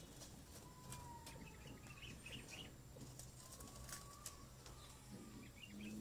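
Faint bird calls: short clusters of high chirps, about a second in and again near the end, over a quiet outdoor background.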